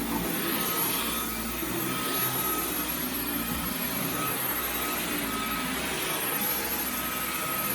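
Dyson V11 Absolute cordless stick vacuum running steadily with its turbo brush head being pushed over thick carpet: an even rushing suction noise with a steady high whine.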